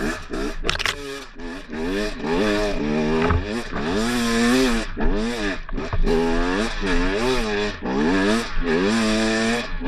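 Dirt bike engine revving up and down over and over, the pitch rising and falling about once a second as the throttle is worked on and off.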